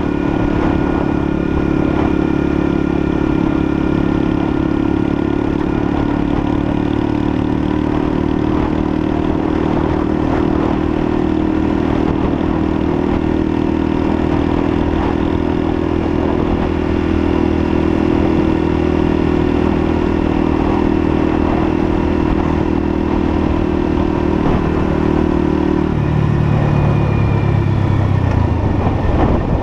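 Lexmoto LSM 125's 125cc single-cylinder engine running at steady revs while riding; near the end the engine note drops suddenly and keeps falling as the revs come down.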